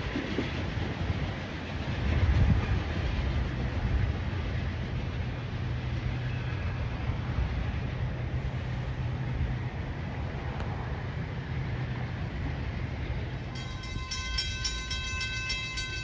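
A diesel-hauled train running past a station platform with a steady low rumble and a held low engine tone. Near the end, a set of steady higher-pitched tones comes in over it.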